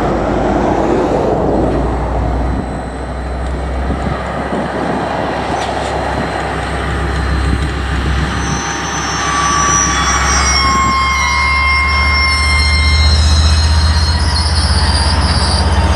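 DL-class diesel-electric locomotive running slowly with a train of container wagons, its engine a steady low drone that grows a little louder near the end. From about nine seconds in, the wagon wheels squeal in high, thin tones.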